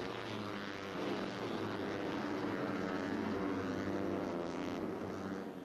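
Moto3 racing motorcycles' 250 cc single-cylinder four-stroke engines running hard on track, their pitch rising and falling.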